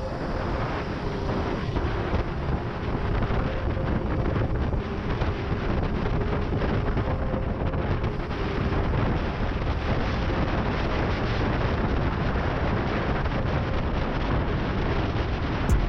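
Wind rushing over the microphone while riding a 72V Razor MX650 electric dirt bike at speed, a steady low rumble with a faint, even motor whine beneath it.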